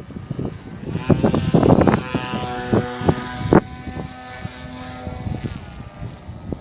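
Scratch-built RC F-22 model plane's motor and propeller whining, the pitch stepping up about a second in and dropping back near the end, with gusts of wind buffeting the microphone.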